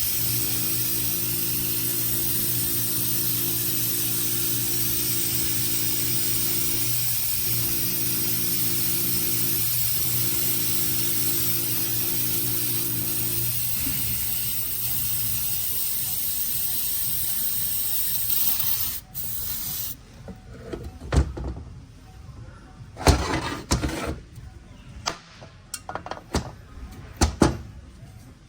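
Long, steady spraying hiss, typical of compressed air or aerosol cleaner blowing off transmission parts, which cuts off suddenly about 19 seconds in. Scattered knocks and clunks of parts being handled follow.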